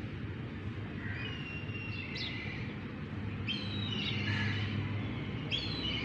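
Small birds chirping and whistling: short high thin notes and quick downward chirps, several overlapping, starting about a second in and recurring, over a steady low background rumble.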